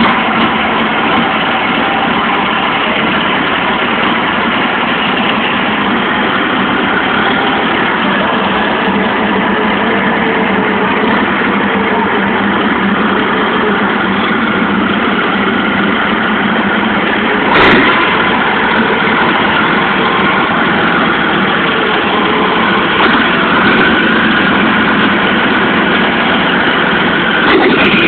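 Freshly rebuilt Scania 113 inline-six diesel engine idling steadily on its first test run after the rebuild. A single sharp knock sounds about two-thirds of the way through.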